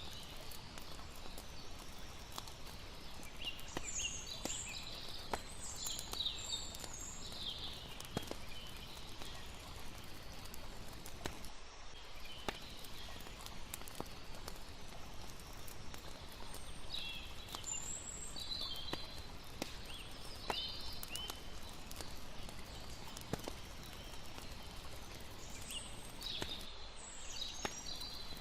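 Layered campfire night ambience: a campfire crackling with scattered sharp pops over a steady hiss of lapping water. Three spells of high chirping calls come and go, the last near the end.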